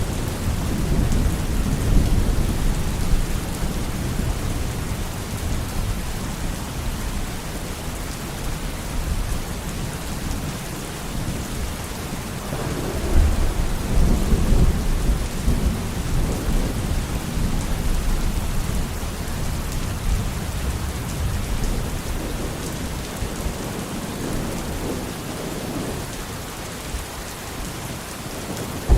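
Steady heavy rain with rolling thunder rumbling low, swelling twice, about a second in and again near the middle.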